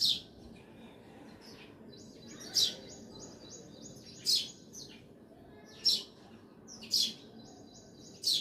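Songbirds chirping: six loud, sharp chirps, each sweeping down in pitch, come about every second and a half, with rapid high trilling between them.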